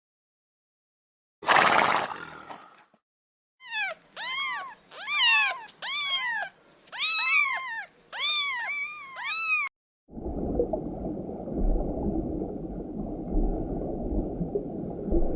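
A sequence of separate animal calls. First a short noisy call, then a run of about eight arched, rising-and-falling pitched calls, then a low, steady rumbling call that runs on to the end.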